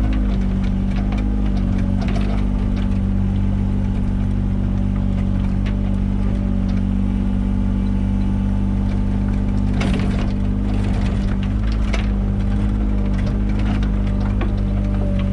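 Mini excavator engine running steadily while digging, with scattered knocks and scrapes now and then, a cluster of them about ten seconds in.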